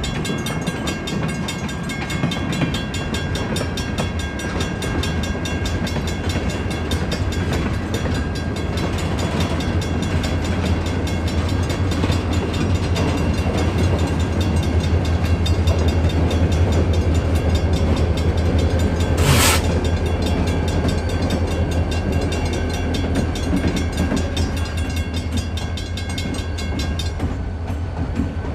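Freight train moving slowly through a transfer track: a steady low diesel rumble with thin, steady high wheel squeal and fast clicking, and one short sharp hiss about nineteen seconds in.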